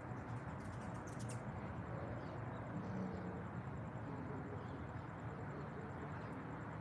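Outdoor nature ambience: a steady low rushing background with faint, scattered bird chirps, and a brief crackling rattle about a second in.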